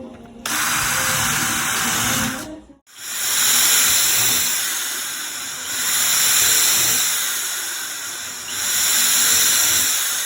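Hissing spray of finish being applied to a wooden panel, in long passes that each swell and fade over about three seconds, with an abrupt break about three seconds in.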